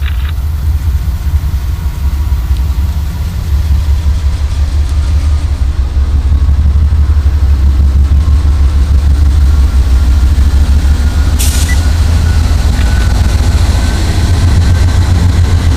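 Pan Am Railways freight train with diesel locomotives, a heavy, steady low rumble that grows louder about four seconds in, with a single sharp click about midway.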